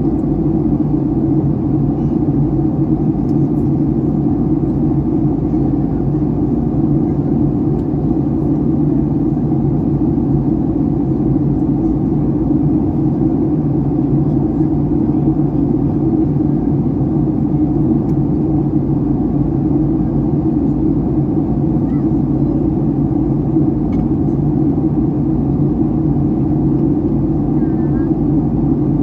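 Steady drone inside the cabin of a Boeing 757-300 airliner in flight: the engines and the rush of air along the fuselage, a constant low hum that does not change.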